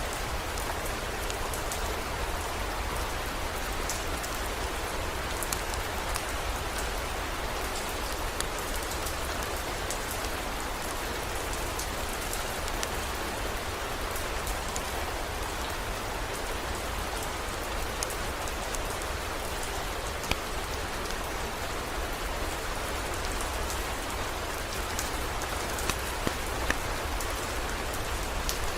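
Steady heavy rain, with scattered sharp drop ticks and a few louder clicks near the end, over a steady low rumble.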